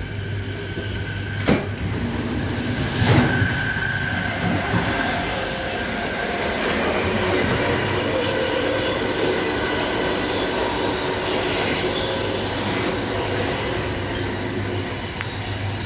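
Running noise of an ÖBB Nightjet passenger coach on the move, heard in the vestibule and gangway: a steady loud rail rumble and hiss over a constant low hum. Two sharp clunks come in the first few seconds.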